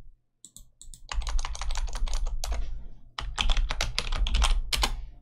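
Typing on a computer keyboard: two runs of quick keystrokes. The first starts about a second in, and the second follows a brief pause just past the middle.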